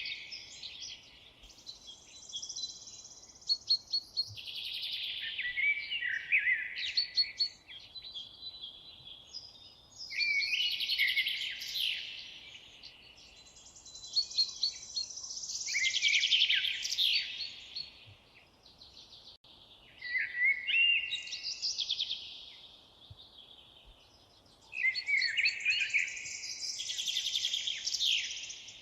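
A songbird singing. Its song comes in high, complex warbling phrases of two to three seconds each, repeated about every four to five seconds with short pauses between them.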